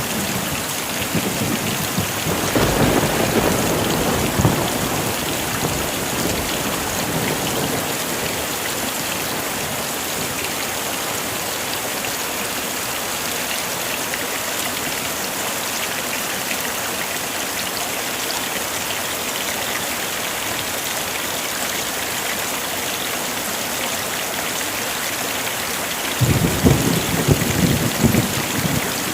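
Heavy rain falling steadily, with low rolls of thunder: one from about two to seven seconds in, and another starting near the end.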